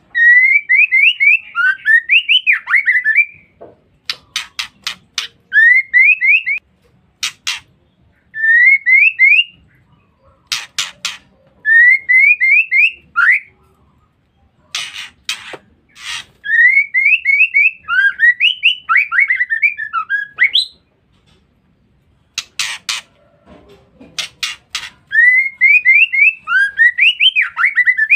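Female white-rumped shama calling: repeated phrases of quick rising whistled notes, alternating with short groups of three or four harsh, rasping notes.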